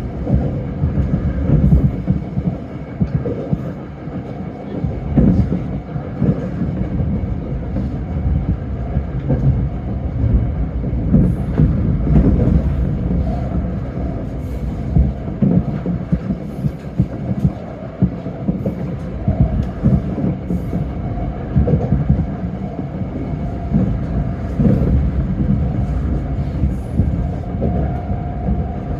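Tōyō Rapid Railway electric train running, heard from inside the car: a steady low rumble of wheels on rail with scattered light clicks.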